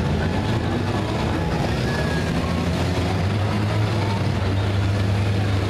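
Several four-cylinder demolition derby cars' engines running together, a steady low drone.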